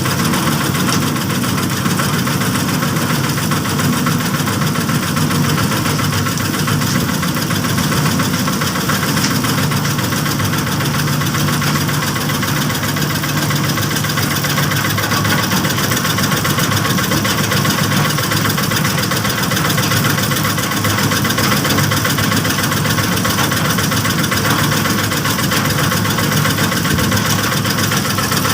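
Small engine of a bored-pile rig running steadily at constant speed, with no change in pitch or load.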